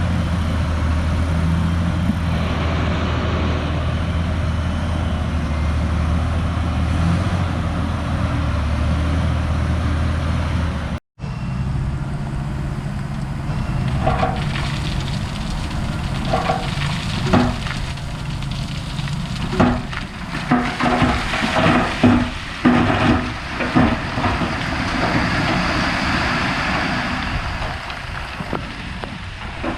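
Crawler bulldozer's diesel engine running steadily. After a brief cut, it runs on with repeated metallic clanks and squeaks from its tracks and blade.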